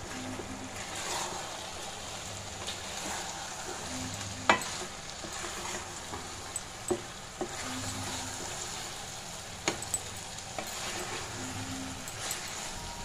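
Chicken pieces and onions sizzling in hot oil in a pan as they are stirred and tossed with a wooden spatula. The steady sizzle is broken by a few sharp knocks of the spatula against the pan.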